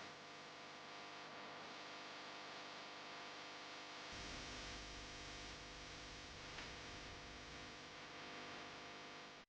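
Faint steady electrical hum with hiss; a low rumble joins about four seconds in.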